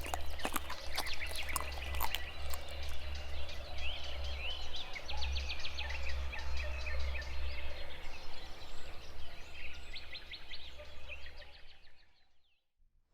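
Small birds chirping in a series of quick sweeping chirps over a low steady rumble of outdoor background noise, with a few clicks at the start. It fades out near the end.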